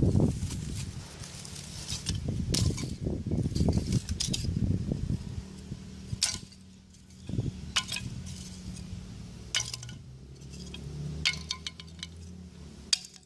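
Dry coconut shell charcoal pieces clinking against one another as they are handled, in scattered sharp, glassy clinks over a low rustle that is strongest in the first half. The bright, ringing clink is the sign of sun-dried, low-moisture charcoal.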